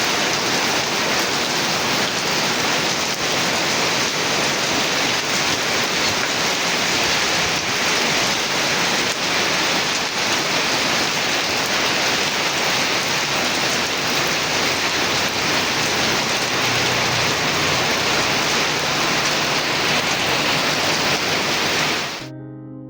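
Heavy rain falling in a storm, a steady, dense hiss. It cuts off abruptly near the end as soft piano music begins.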